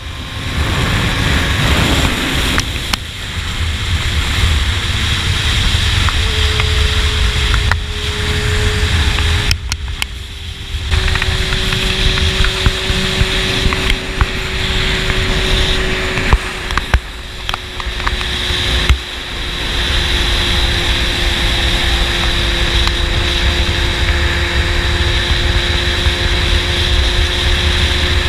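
Honda CBR600 sport bike's inline-four engine with a slip-on exhaust, cruising under steady throttle with heavy wind rush on the microphone. The engine note holds steady and sinks slowly, with a few brief dips in level.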